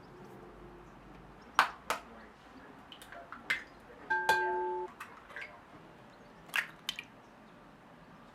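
Kitchen utensils and dishes handled on a counter: a scattering of sharp clicks and knocks, and one ringing clink that holds for under a second about four seconds in.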